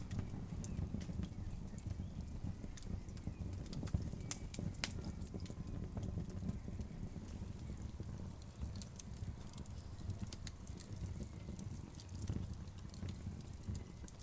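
Wood fire burning: logs crackling with irregular sharp pops and snaps over a steady low rumble of the flames.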